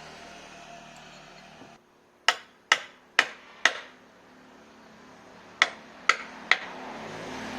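Sharp knocks, four in quick succession about half a second apart, then after a pause three more, each with a brief ringing tail.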